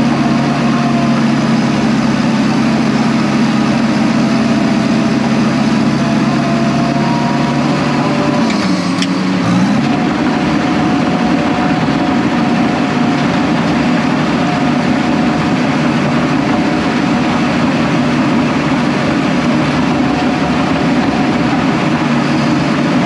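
Case 750H crawler dozer's diesel engine running steadily under load while pushing dirt. Its pitch dips briefly about nine seconds in and then recovers.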